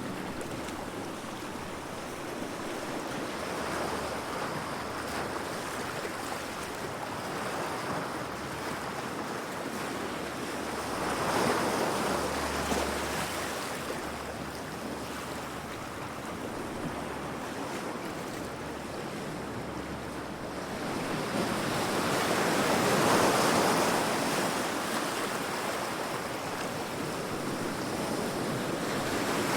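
Ocean waves crashing against rocks: a continuous wash of surf that swells into a louder break about eleven seconds in and a longer, bigger one about two-thirds of the way through.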